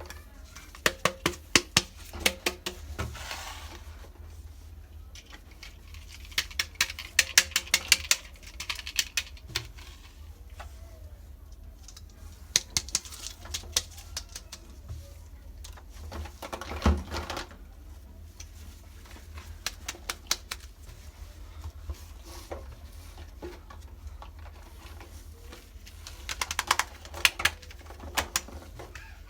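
Rapid clicking and tapping of small plastic toy kitchen pieces being handled, in several bursts of quick clicks with quieter pauses between, over a steady low hum.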